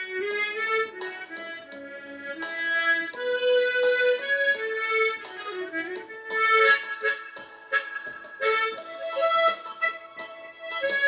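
Harmonica playing a slow melody, several notes sounding together as chords, the notes changing every half second or so.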